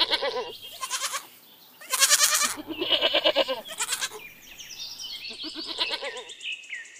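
Goats bleating, several quavering bleats one after another with short pauses between them.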